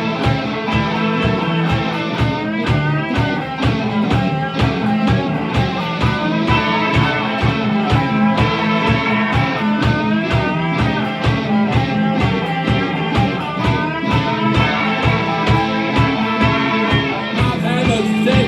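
Instrumental break of a rock song: electric guitars playing over a steady, fast drum beat, with no vocals.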